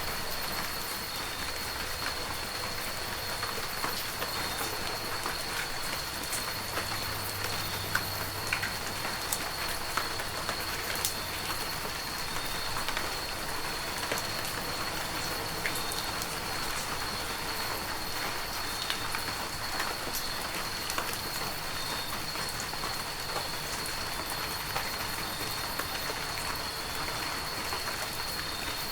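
Heavy rain falling steadily, a dense even hiss with many small close drop ticks scattered through it. A thin steady high-pitched tone runs underneath the whole time.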